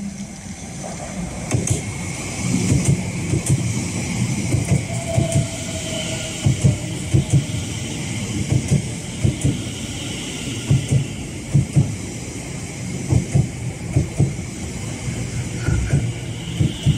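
Greater Anglia Class 720 Aventra electric multiple unit running along the platform. Its wheels clack over the rail joints in a steady series of thumps over a rushing rolling noise.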